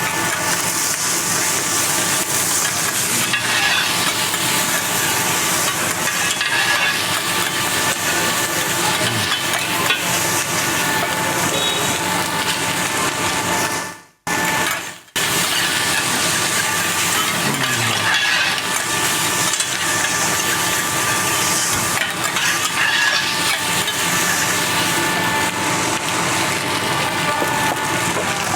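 Rice noodles frying on a hot teppanyaki iron griddle, a steady loud sizzle with metal spatulas scraping and knocking on the plate. The sound drops out for about a second halfway through.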